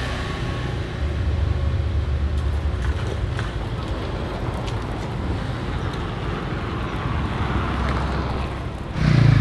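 A vehicle engine running steadily with a low hum, the sound of a vehicle under way.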